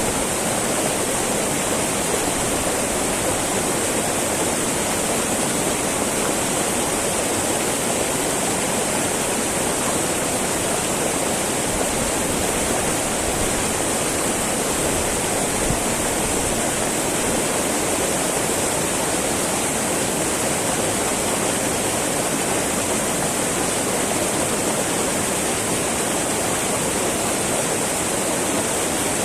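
Small mountain river babbling over rocks, a steady rushing and gurgling of flowing water.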